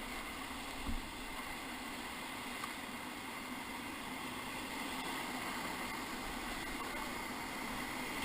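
Whitewater river rushing around the raft as a steady wash of water noise, growing a little louder near the end, with a single light knock about a second in.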